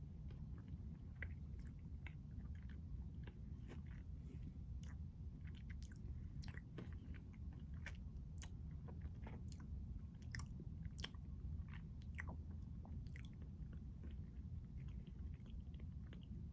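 Close-miked chewing and crunching of a Keto Pint Triple Chocolate Crunch ice cream bar, its crunchy chocolate coating giving irregular sharp crackles. The crackles come thickest in the middle and thin out near the end, over a steady low hum.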